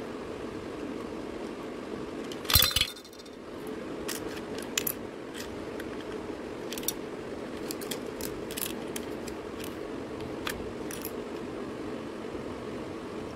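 Small plastic toy parts being handled and snapped together: scattered sharp clicks and one louder clatter about two and a half seconds in, over a steady low hum.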